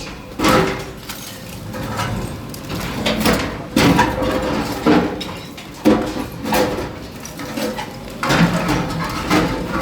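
Demolition by a bulldozer: irregular scraping and crashing as masonry is broken and pushed, with several sudden loud knocks.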